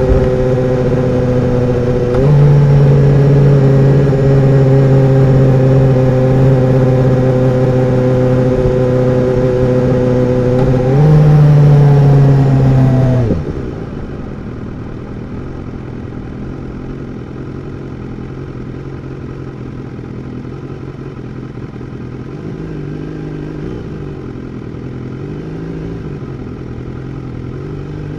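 2016 BMW S1000R's inline-four engine running steadily under way, its note stepping up slightly about two seconds in and again about eleven seconds in. About thirteen seconds in the throttle closes and the engine falls to a much quieter, lower running note.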